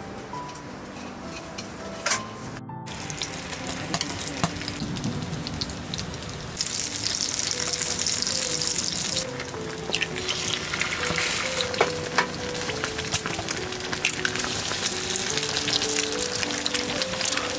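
Sausage patties and eggs frying in a four-well nonstick pan, a steady sizzle that grows louder about seven seconds in and again near the end, with a few sharp taps. A simple melody of background music plays underneath.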